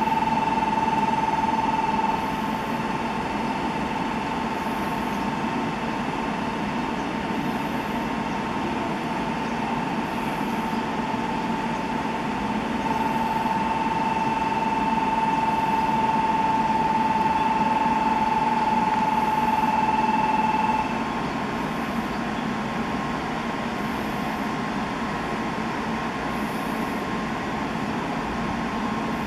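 N700A Shinkansen train standing at the platform with a steady hum of running equipment. A steady high-pitched tone sounds twice over it: briefly at the start, then for about eight seconds in the middle.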